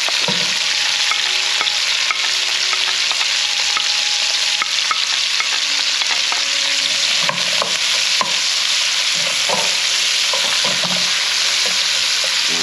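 Sliced onions and bell peppers sizzling steadily in hot sausage and bacon grease in a frying pan, with clicks and scrapes of a wooden spatula pushing them off a plate and stirring them.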